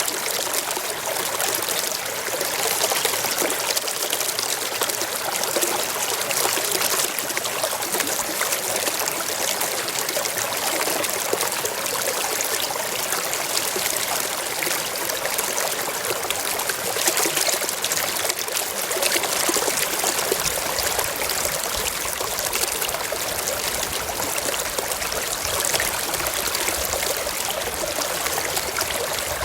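Shallow stream running over rocks: a steady trickling rush of water. A faint low rumble joins it about two-thirds of the way through.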